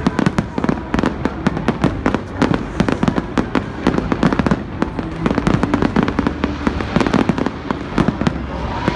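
Fireworks display: dense, continuous bangs and crackles of aerial shells bursting, several a second and overlapping, with no pause.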